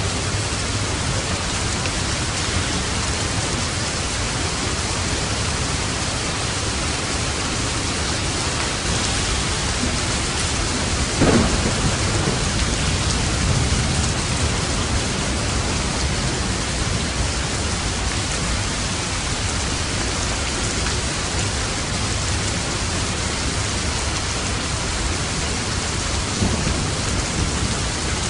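Steady heavy rain, with a sharp crack of thunder about eleven seconds in that rumbles on for a couple of seconds, and a smaller rumble near the end.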